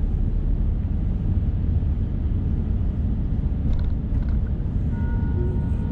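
Steady low rumble of a car on the road, heard from inside the car, with no break.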